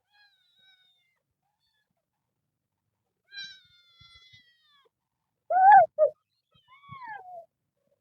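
Cats meowing: a few faint, high thin meows, a high meow that slides down about three and a half seconds in, then the loudest, a meow in two parts about five and a half seconds in, followed by a falling meow.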